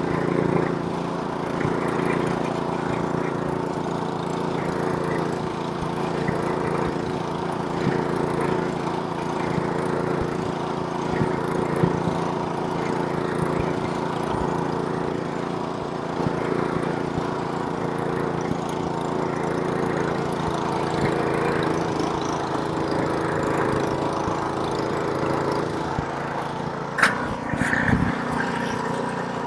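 Snowblower's small gas engine running steadily under load as it throws snow, with a couple of brief sharp knocks near the end.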